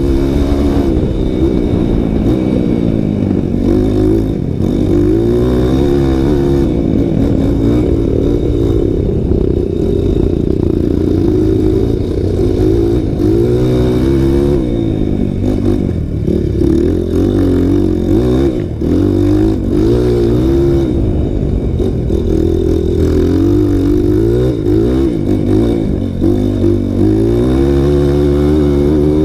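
Single-cylinder four-stroke trail motorcycle engine being ridden hard, its pitch rising and falling again and again as the throttle is opened and closed through the gears.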